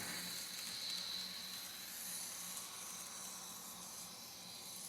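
Model diesel locomotive and its freight cars rolling on the layout track: a faint steady hiss with a low motor hum, slowly fading.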